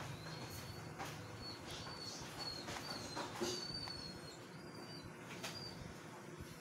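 A small bird chirping in short, high chirps about twice a second, stopping about five and a half seconds in, with a few faint clicks.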